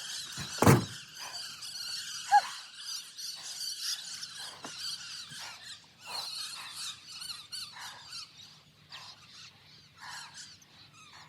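A large flock of birds squealing and chattering together in many overlapping calls, with one heavy thud about a second in.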